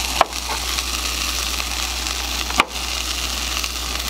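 Burger patties sizzling steadily in a hot cast iron skillet, with two sharp clicks about two and a half seconds apart.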